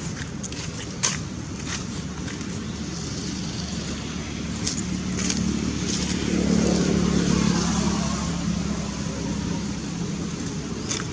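A motor vehicle running close by and passing, its engine noise swelling about six to eight seconds in and then easing off, with scattered sharp clicks.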